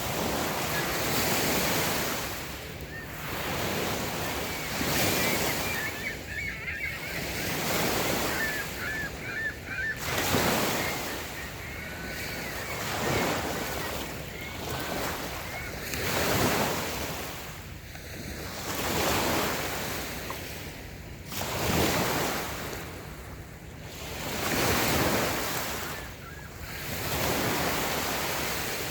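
Light waves breaking and washing up a sandy beach, swelling and falling back every two to three seconds.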